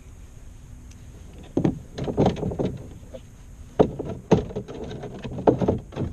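A string of irregular hollow knocks and clunks on a kayak, starting about one and a half seconds in, as gear is handled or bumped against the hull.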